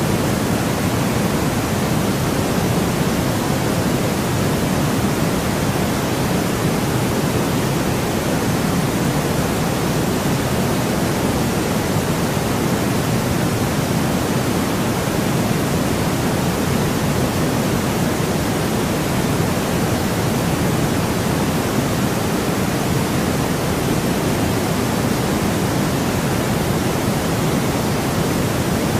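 Steady, even noise with no pitch or events, strongest in the low and middle range rather than flat: a generated sleep-noise track, closer to pink noise than true white noise.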